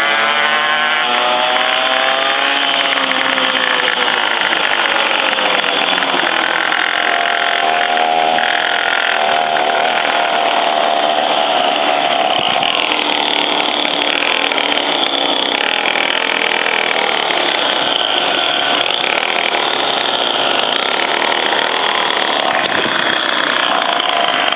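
Small engine of a motorized scooter running continuously, its pitch rising and falling as the engine speeds up and slows down.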